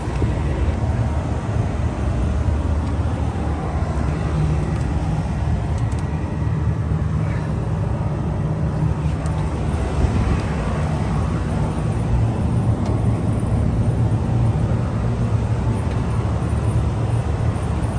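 York Predator 7.5-ton rooftop package unit running: a steady low mechanical hum from its outdoor fan motor and compressor.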